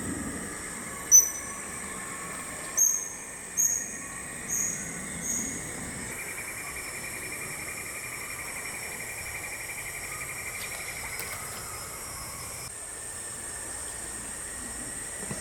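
Steady, high-pitched drone of tropical forest insects, with a bird giving five short, sharp, high calls in the first few seconds, each fainter than the last.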